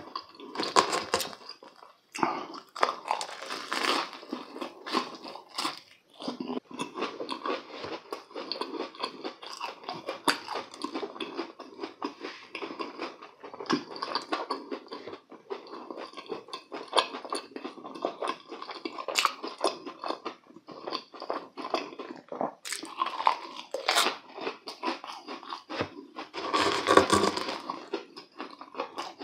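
Chewing and crunching of deep-fried, crumb-coated croquettes, the crisp crust crackling irregularly with each chew, close to the microphone. A louder crunchy bite comes near the end.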